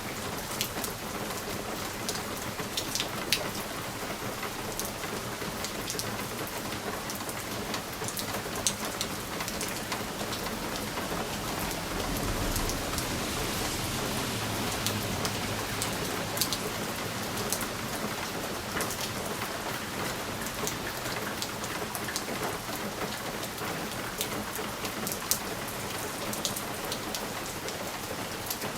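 Steady rain hissing against window glass, with individual drops ticking sharply on the pane now and then. A low rumble swells and fades about halfway through.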